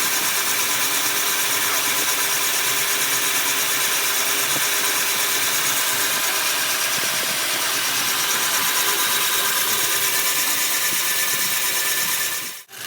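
A power tool running steadily with a loud, bright hiss and a faint whine, cutting off abruptly near the end.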